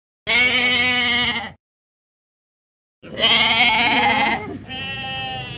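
Three bleats from a sheep or goat, each about a second long with a wavering pitch; the last is quieter. Between the first and second there is a gap of complete silence.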